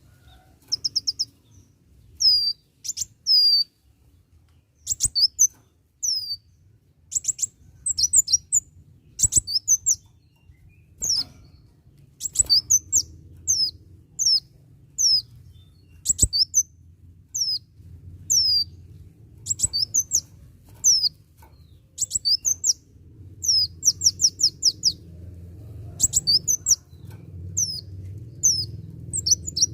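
A kolibri wulung (sunbird) singing in lively bursts of high, sharp, downward-sweeping chirps and rapid trills. A low hum rises underneath in the second half.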